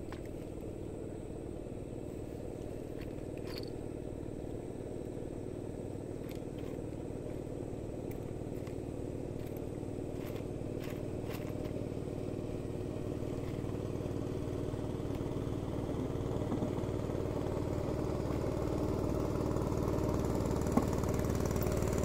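A small engine running steadily, growing gradually louder throughout, with a few faint clicks over it.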